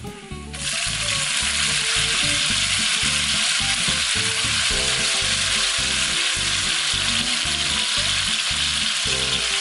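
Diced tomatoes sliding into a skillet of frying bacon and its hot fat: a loud sizzle starts suddenly about half a second in as the wet tomato hits the fat, then carries on steadily.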